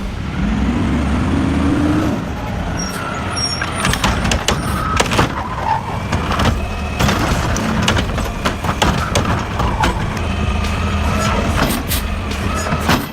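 Heavy truck engine running, revving up over the first couple of seconds, with many sharp knocks and clanks throughout.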